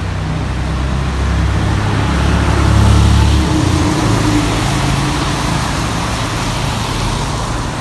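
A motor vehicle passing close by, its low engine rumble swelling to a peak about three seconds in and then fading, over a steady hiss of road traffic.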